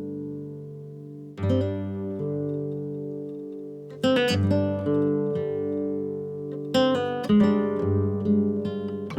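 Background music on acoustic guitar: strummed chords that ring out and fade, a new one struck about every two and a half to three seconds.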